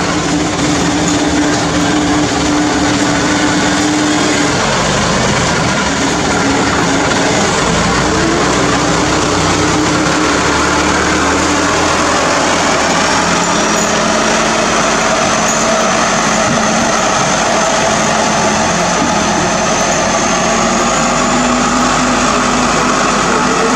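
Hino truck's diesel engine running steadily, its note shifting slightly a few times.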